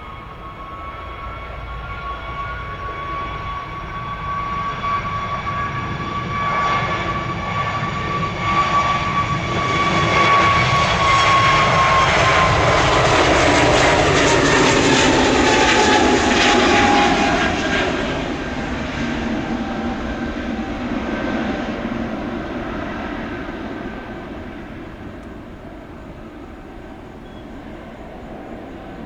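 Jet airliner passing by: its engine whine and rumble build up, are loudest in the middle, then fade. Through the loudest part the whine drops in pitch as the aircraft goes past.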